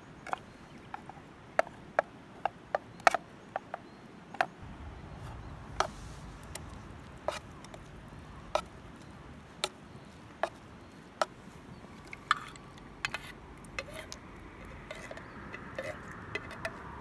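Wood campfire crackling with irregular sharp pops, roughly one a second. A low steady rumble joins about four seconds in.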